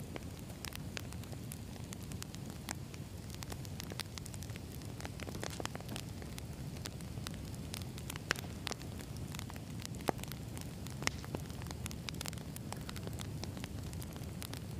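Wood campfire burning with a steady low rush of flame and frequent sharp crackles and pops from the firewood; a few louder pops stand out about 8, 10 and 11 seconds in.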